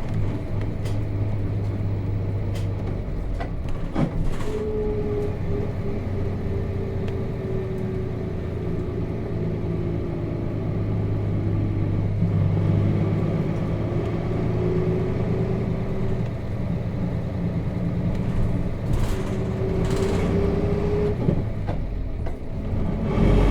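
Nissan Diesel KC-RM211GSN bus's FE6 straight-six diesel engine running steadily as the bus drives, heard from inside the cabin, with a whine that drops in pitch and then climbs again and a few brief knocks from the body.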